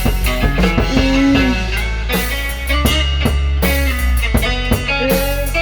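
Instrumental passage of a blues-rock song: guitar with bending notes over a steady bass and drum beat.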